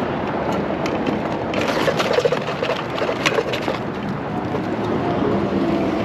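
Wind and rolling noise from riding a bicycle, with a run of clicks and rattles a couple of seconds in.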